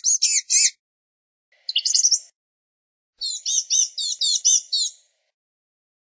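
Blue-gray gnatcatcher singing: phrases of thin, high, rapidly repeated notes, one ending just after the start, a short one about two seconds in, and a longer one from about three to five seconds in.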